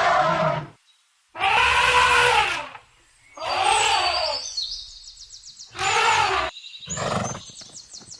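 Four or five loud calls from a large animal, each lasting up to about a second and a half, with faint bird chirps behind them from about halfway through.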